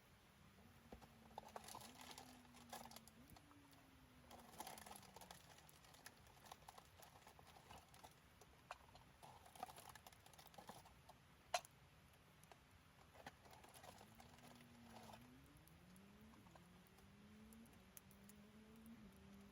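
Wood fire crackling faintly, with scattered clusters of small crackles and one sharp pop about eleven and a half seconds in.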